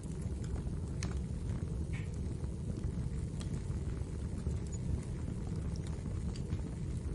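Wood fire burning in a fireplace, a steady low rumble of flames with scattered sharp crackles and pops.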